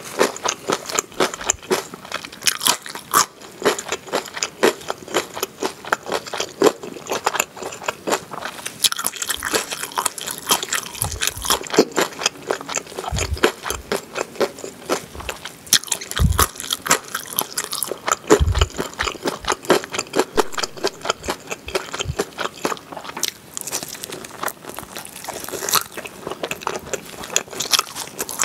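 A person chewing and biting into grilled pork back ribs topped with melted cheese: quick, steady crunchy chewing clicks and mouth noises, with a few dull low thumps in the middle.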